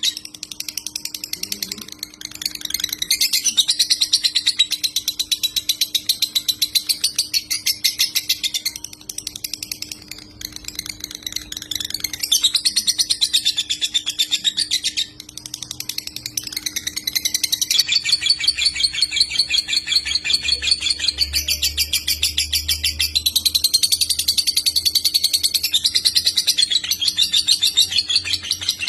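A songbird singing a long, very rapid, buzzy chattering trill in the fast 'konslet' style, broken by a few brief pauses, over a faint steady hum.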